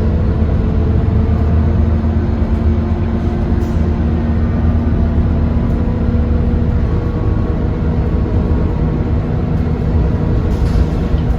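Scania K230UB city bus's diesel engine running steadily under way, a loud constant rumble and drone as heard on board.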